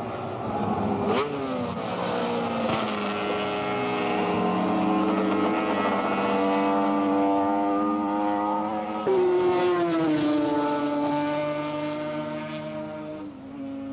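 Several superbike racing motorcycles running hard at once, their engine notes overlapping. The pitch climbs and falls as the bikes pass and change gear, with sharp changes about a second in and again about nine seconds in.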